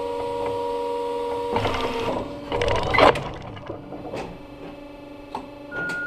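A steady mechanical whine, like a small electric motor running, that stops about a second and a half in. It is followed by two short rattling bursts and a few sharp clicks.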